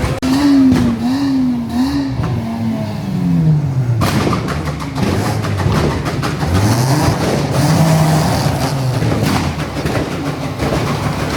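A car engine being revved, blipped up and down quickly three times, then let fall slowly. It is revved up again, held high for a moment and dropped back.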